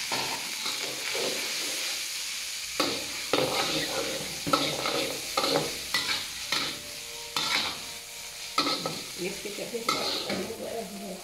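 Chili paste sizzling in hot oil in a wok, stirred with a metal spatula that scrapes and knocks against the pan at irregular moments over a steady frying hiss.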